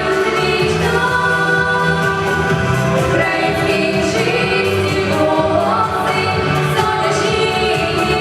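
Music: a choir-like group of voices singing held notes over accompaniment.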